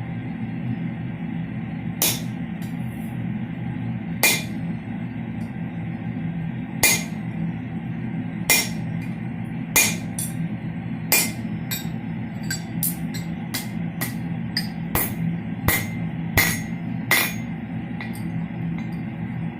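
Hammer blows on steel, each a sharp strike with a short metallic ring, about fifteen of them at an uneven pace that quickens in the second half.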